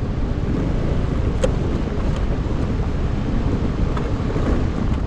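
Wind buffeting the camera microphone while riding a Vespa scooter, with the scooter's engine and road noise running steadily underneath.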